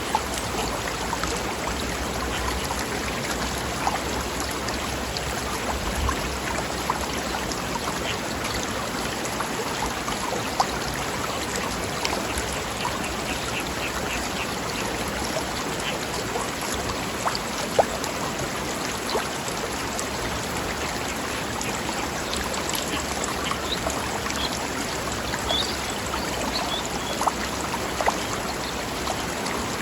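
A stream running over rocks: a steady babbling rush of water, with a few brief louder splashes.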